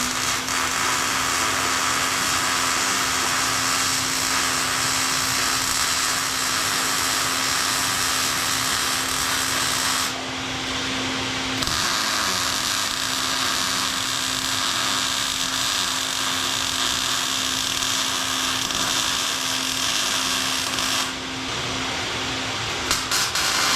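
Angle grinder spinning up and working steel: a steady motor whine under a loud grinding hiss. The hiss thins out briefly about ten seconds in and again near the end while the motor keeps running.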